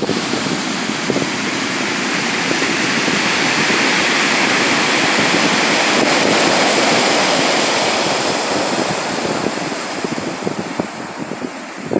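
Sea waves breaking and washing in: a loud, steady rush of surf that swells to a peak and then eases off toward the end.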